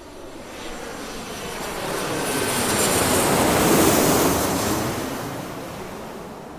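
Airplane passing overhead: its engine noise swells to a peak about four seconds in, then fades away.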